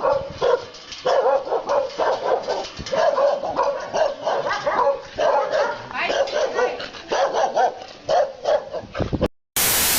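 A dog yipping and whining in quick, repeated cries that bend up and down in pitch. Just before the end they break off into a moment of silence, followed by a short burst of loud hiss.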